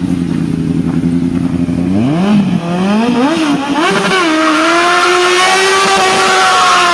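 Yamaha R1 motorcycle's inline-four engine fitted in a Zaporozhets car, running steadily at low revs, then blipped up and down a few times about two seconds in, then held at high revs from about four and a half seconds in.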